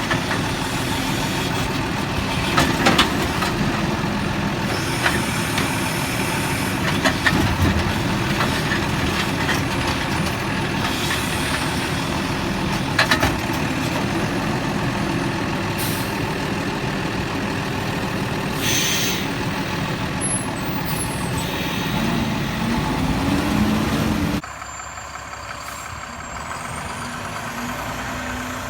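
Garbage truck engine running steadily, with occasional sharp knocks and bangs. The sound drops suddenly to a quieter engine near the end.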